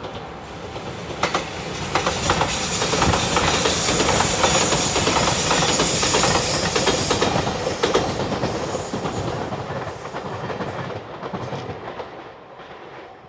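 A train passing at speed, its wheels clicking over the rail joints in a rapid run of clacks. The rumble swells to a peak about halfway through and then fades, with a thin high whine from the wheels near the loudest part.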